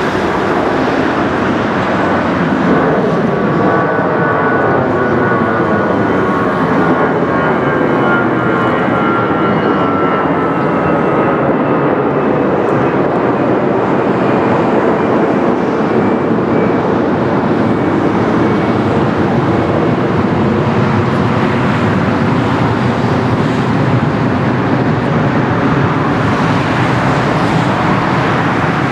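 Airbus A321-200 jet airliner passing close by, a loud steady rush of its engines with whining tones that slowly fall in pitch as it goes past.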